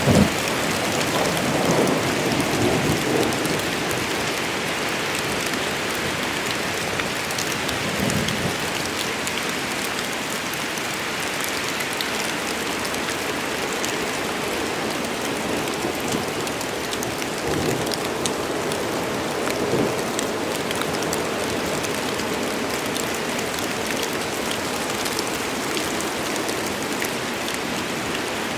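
Steady heavy rain falling in a forest, with single drops ticking close by throughout. A few low swells come through a couple of seconds in, at about eight seconds and again around the middle.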